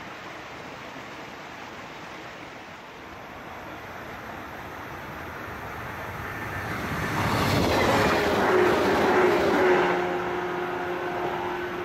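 Electric local passenger train approaching and passing close by. The rolling noise builds to a peak about eight to ten seconds in, then a whine drops in pitch as it goes by, leaving a steady hum.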